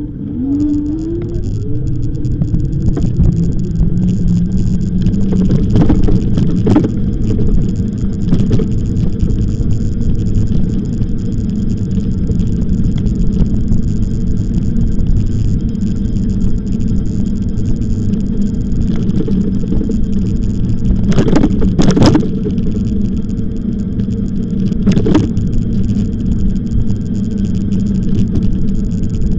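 Continuous low rumbling noise of riding along on an e-bike, the wind and road noise heard on the microphone, with a few short knocks.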